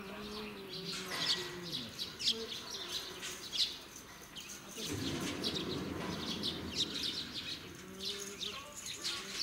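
Birds chirping in many short, high calls all through, with faint distant voices underneath.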